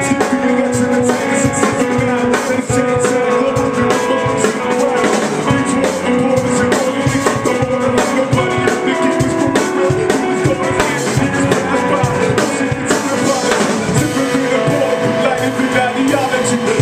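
A band playing an instrumental passage: a drum kit keeping a steady beat under held instrument notes.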